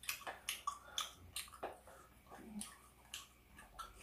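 Wet chewing and lip smacks of a person eating braised pork back ribs with kimchi, a string of short irregular clicks and smacks.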